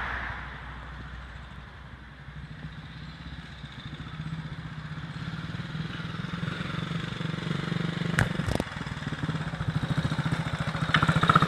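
Ariel W/NG's 350 cc single-cylinder engine running on the road at steady speed, a rapid even beat that grows louder over the last several seconds. Two sharp clicks a little after eight seconds in.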